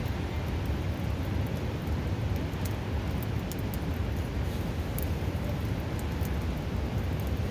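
Steady rush of a nearby river, with small sharp crackles and pops from a wood campfire scattered over it.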